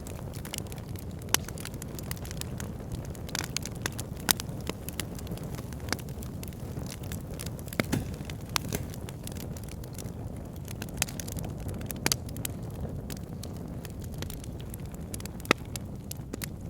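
Fire pit burning, crackling with scattered sharp pops over a steady low rush of flames. A few pops stand out louder, about a second in, near four seconds, around eight and twelve seconds, and near the end.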